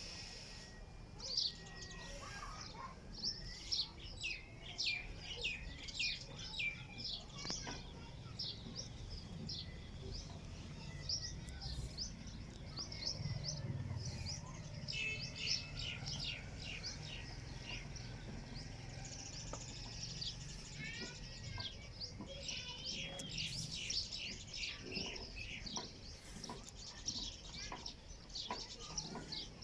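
Many small birds chirping, short overlapping chirps and twitters without pause.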